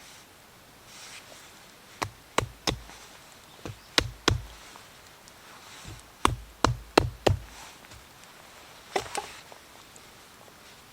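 Sharp, heavy knocks struck in quick runs of three or four, with pauses between the runs.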